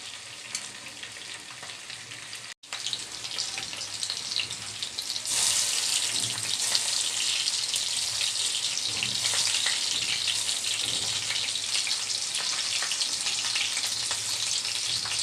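Marinated chicken pieces sizzling in hot oil in a pan, a steady hiss with a short break about two and a half seconds in, growing louder about five seconds in.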